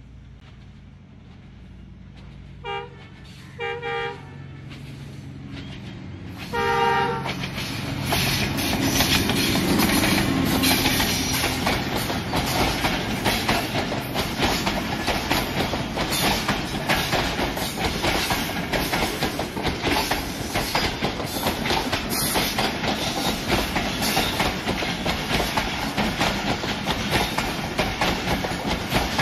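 ZCU-20 diesel-electric locomotive approaching with a low engine rumble and sounding short horn blasts a few seconds in, then passing close by with its passenger coaches, the wheels clattering rhythmically over the rail joints.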